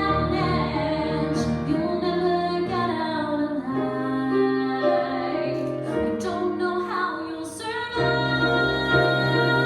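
A woman singing a music-theatre ballad in sustained, held notes over instrumental accompaniment; the accompaniment thins briefly, then comes back fuller with a new chord about eight seconds in.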